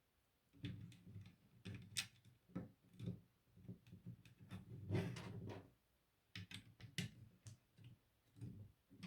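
LEGO pieces being handled and pressed together, giving irregular small clicks and light knocks.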